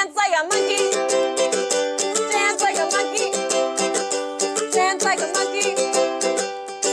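Ukulele strummed in a quick, steady rhythm, playing the chords of a song with no singing over them.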